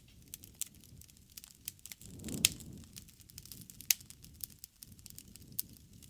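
Wood fire crackling, with sharp snaps and pops scattered throughout over a low rush of flame. The flame noise swells about two to three seconds in, and the loudest pops come at about two and a half and four seconds in.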